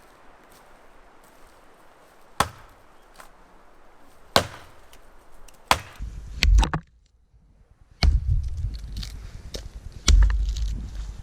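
Chopping into a dead standing tree: sharp single strokes about two seconds apart, then heavy low thuds and crashing about halfway through and twice more near the end.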